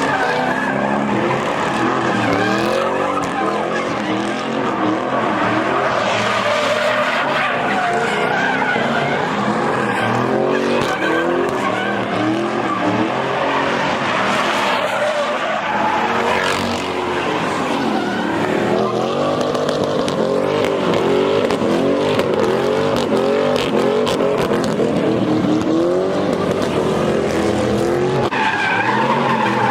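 Car engines revving up and down again and again with tyres screeching, as cars spin donuts and drift.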